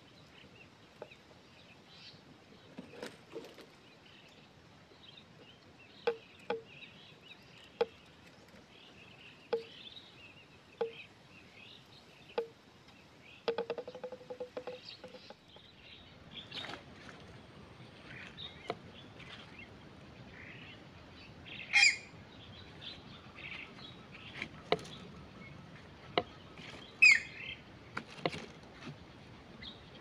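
Birds calling: a run of short low notes about every second and a half, with faint high chirping throughout and two loud, sharp calls in the second half.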